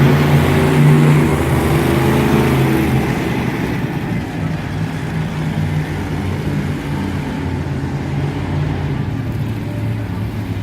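Monster truck engine running, loudest in the first few seconds and then easing off to a lower, steady level.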